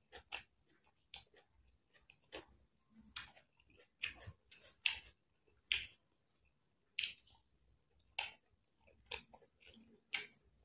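Close chewing and wet mouth smacks of a person eating with their hand, in irregular short clicks about one or two a second.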